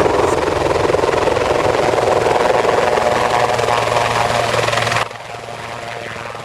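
A loud, steady machine-like noise with a fast flutter that cuts off suddenly about five seconds in.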